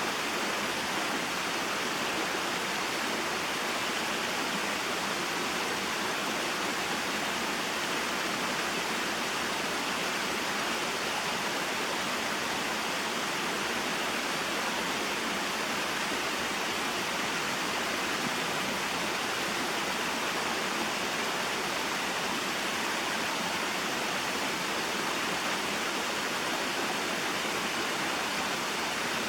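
Small waterfall spilling into a mountain stream: a steady, even rush of falling and flowing water.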